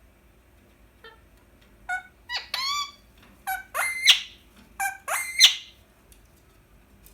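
Indian ringneck parakeet calling: a run of about six high-pitched squawks, coming in pairs of a short note followed by a longer one.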